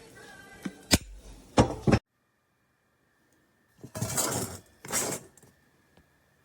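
Sharp metallic clinks and knocks from a stainless steel tea kettle being handled, then two short rushes of noise about four and five seconds in.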